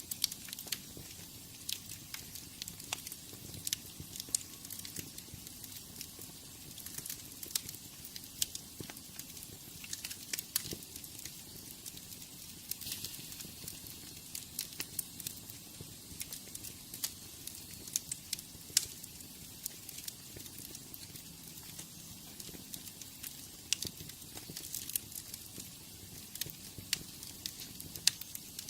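Wood fire in a fireplace crackling: irregular sharp pops and snaps over a soft steady hiss of flames.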